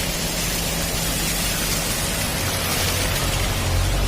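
Steady rushing-water hiss from heavy rain and a river in flow, over a low steady hum that swells slightly near the end.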